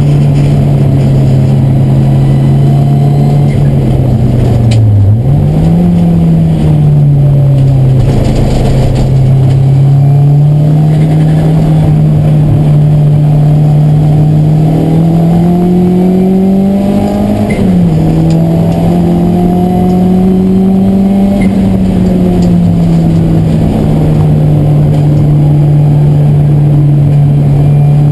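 A racing car's engine, loud from inside the cockpit, pulling hard with its note slowly climbing and falling. The pitch dips and jumps back up about five seconds in and drops suddenly about seventeen seconds in, as with gear changes.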